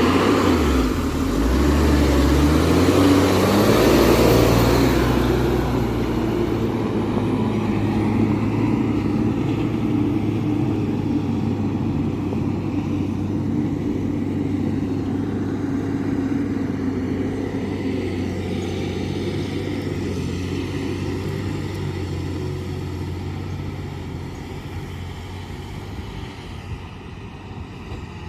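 Diesel engine of a loaded Tata 2518 tipper truck revving up as it pulls away over the first few seconds, then running steadily and slowly fading as it moves off.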